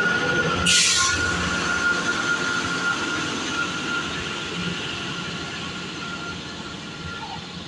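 Diesel multiple unit train running with a low rumble and thin whine, fading steadily as it draws away. A short burst of hiss comes just under a second in.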